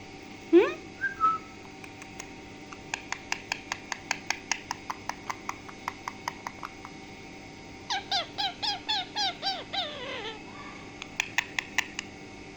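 Pet green parrot calling. It gives a short rising call and a whistle, then a quick run of sharp clicking chirps that fade, then a series of about eight chirps each falling in pitch, and a few more clicks near the end.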